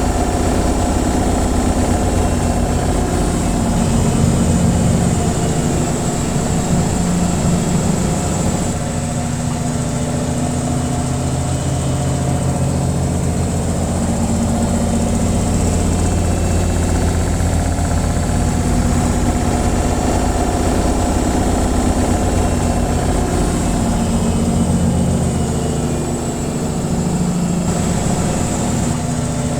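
Washing machine on its spin cycle: a steady, continuous low hum and vibration of the drum and motor.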